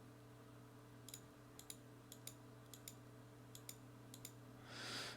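Faint computer mouse clicks, about a dozen, some in quick pairs, over a steady low electrical hum, with a soft rush of breath-like noise near the end.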